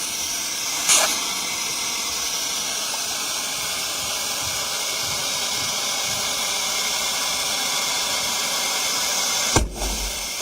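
Cordless handheld vacuum cleaner with a 65W motor running with a steady airy hiss, broken by a brief sharp noise about a second in and a short knock near the end.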